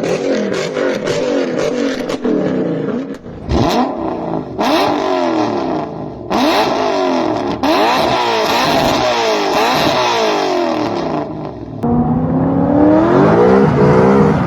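Toyota/Lexus UZ-series V8 engine revving hard again and again, its pitch rising and falling with each blip and changing abruptly at several cuts. Near the end it climbs more steadily in pitch as the car accelerates.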